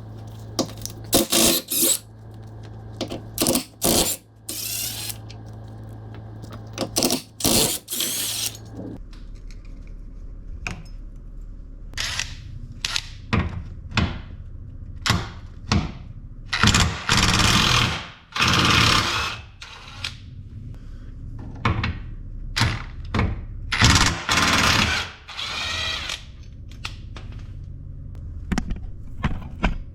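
A power tool run in repeated short bursts, each a fraction of a second to about a second and a half long, working on the bolts of a car's front lower control arm. The longest, loudest bursts come about halfway through and again a little later.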